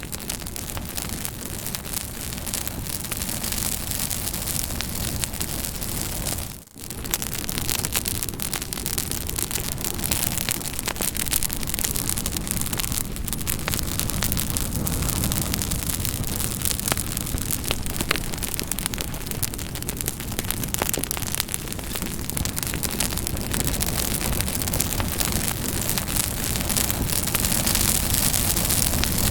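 Campfire burning, with a steady hiss full of small sharp crackles and pops of burning wood. About seven seconds in the sound fades out for a moment and comes back.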